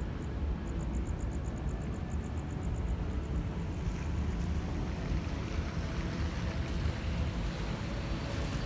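Steady low rumble of city traffic. For the first few seconds a fast, high-pitched pulsing chirp runs over it, about five pulses a second.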